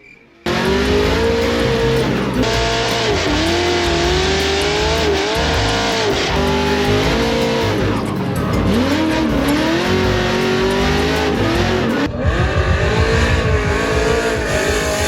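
Drift car engine revving up and down under constant throttle changes, with tyre squeal, while the car slides. Music plays underneath.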